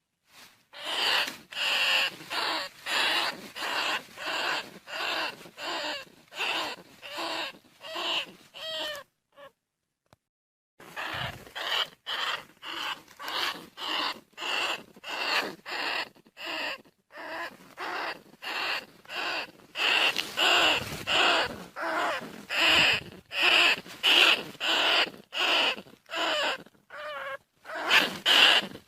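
Bandicoot rat calls: short, high squealing cries repeated about one and a half times a second, with a break of about two seconds a third of the way through.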